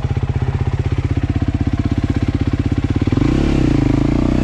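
Dirt bike engine running with a steady, even pulse, then revved up and down with the throttle about three seconds in.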